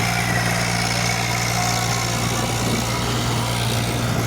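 Tractor diesel engine running steadily at a constant speed, a low, even drone.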